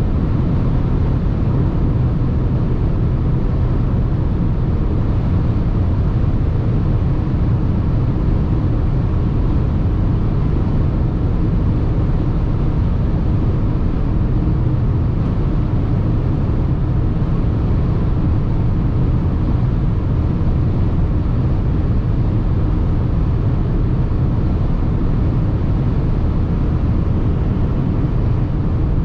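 Mercedes GLA 220d 4MATIC driving at a steady pace, a low, even rumble of road and wind noise with the engine running underneath, heard from inside the cabin. The level holds level with no rise or fall in pitch, so the car is cruising rather than accelerating.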